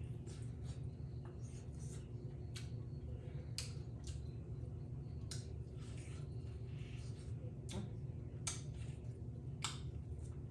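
Close-up eating sounds: scattered wet mouth clicks and smacks from chewing, roughly one every second or so, over a steady low hum.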